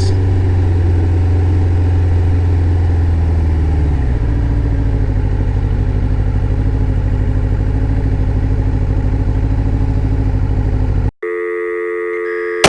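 Kawasaki ZX-11 Ninja's inline-four engine running steadily under the rider, its note dropping slightly about four seconds in. Just before the end it cuts off abruptly, and a steady chord of electronic tones takes over.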